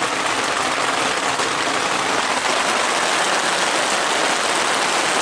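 Heavy rain falling steadily on the fabric canopy overhead, a dense, even patter with no let-up.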